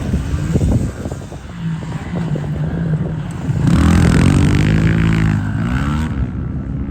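Small motorcycle engines running. One gets much louder, revving with its pitch rising and falling between about three and a half and six seconds in.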